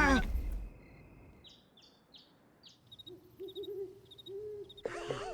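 Owl hooting, a short series of low, even hoots in the second half, preceded by a few faint, high, falling chirps.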